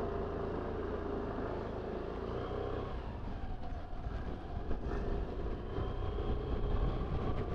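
Motorcycle engine running on the road with passing traffic, picked up by a foam-wrapped external mic on the rider's helmet, with a low rumble of wind that grows slightly louder toward the end.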